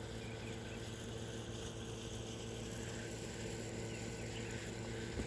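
A steady low mechanical hum, like a nearby motor or air-conditioning unit, with a few faint bird chirps.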